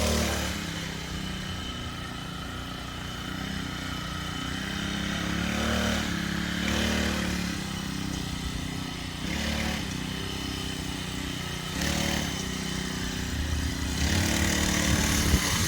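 Mini bike's small engine running as it is ridden, growing fainter as it moves away and louder again near the end as it comes back close.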